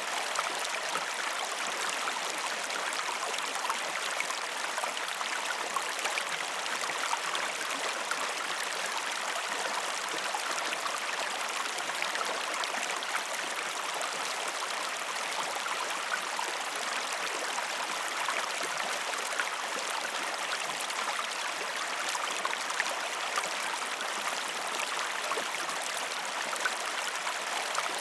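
Waterfall: a steady, even rush of splashing water with fine droplet splashes and no deep rumble.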